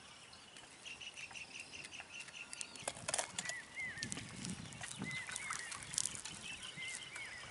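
Birds calling outdoors: a run of short, evenly repeated high chirps, several a second, with a few hooked whistled notes over them and scattered sharp clicks.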